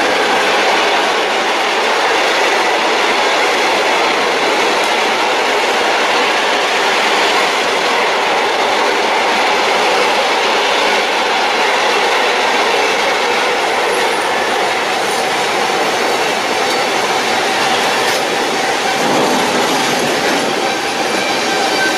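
A long train passing at speed, its wagons rumbling steadily with wheels clattering over the rail joints.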